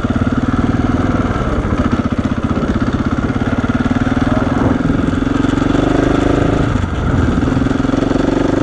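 KTM 690 Enduro's single-cylinder four-stroke engine running while riding at low speed on gravel. The engine note dips briefly about seven seconds in, then picks up again.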